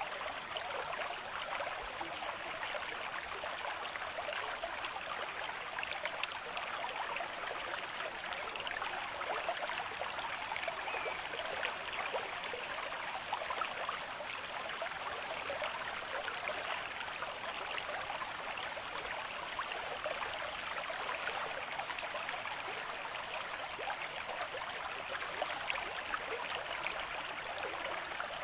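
Stream water flowing and babbling over stones, a steady continuous rush with fine splashing detail.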